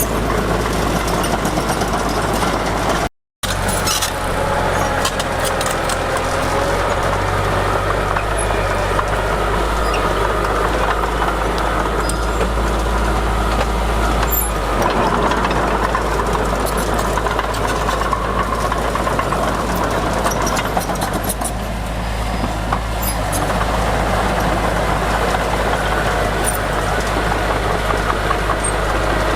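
Heavy diesel earthmoving machinery running steadily, with faint scattered clicks; the sound cuts out completely for a moment about three seconds in.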